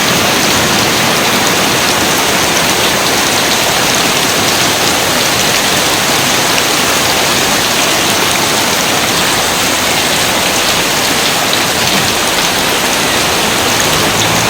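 Steady rain falling: a dense, even hiss of drops that holds at one level throughout, with no thunder.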